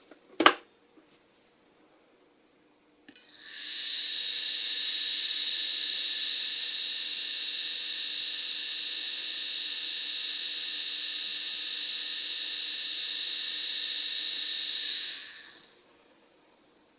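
KaVo PowerGrip dental laboratory micromotor handpiece, driven by its K-Control unit, spinning up about three seconds in, running at a steady high-pitched whine for about eleven seconds, then winding down. A sharp click comes shortly before, near the start.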